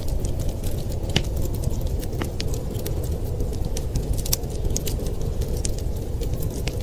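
Wood fire crackling, with many irregular sharp pops and ticks over a steady low rush.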